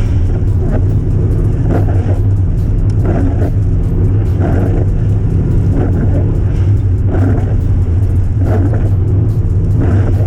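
Subaru Impreza WRX's flat-four boxer engine running at steady road speed, a constant low drone. Brief rushing swells come roughly every second and a half.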